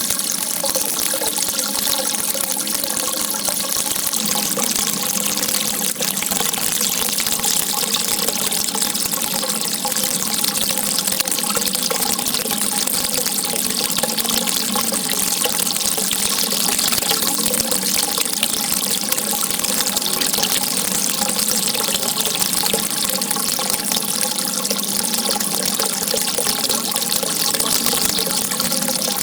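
Water gushing and rushing steadily, an even bright hiss with no breaks.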